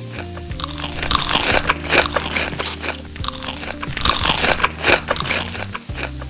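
Close-up biting and chewing of crunchy food, in two bouts of loud crunches, over background music.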